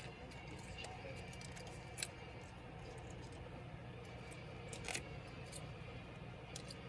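Small sharp clicks from handling a laptop during disassembly, the clearest about two and five seconds in, over a low steady hum.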